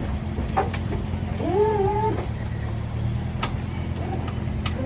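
Hydraulic suspension of a 1986 Mazda B2000 mini-truck at work. A long wavering squeak comes about one and a half seconds in, with shorter squeaks and sharp clicks, over a steady low hum.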